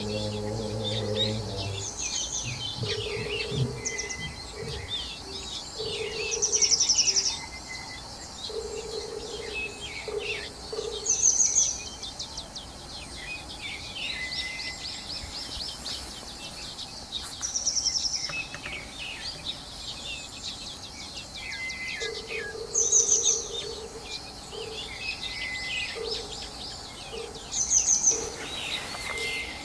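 Birds singing outdoors in a busy chorus of short chirps, with one bird repeating a loud, high phrase about every five seconds.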